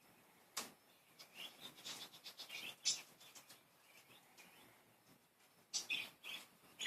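Pet budgies chirping and chattering in short high bursts, with a sharp click about half a second in and a second flurry of chirps near the end.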